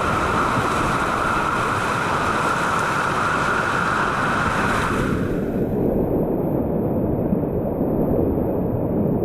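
Whitewater river rushing loudly and steadily around a kayak, with water noise on the microphone. About five seconds in the sound turns muffled, losing its hiss.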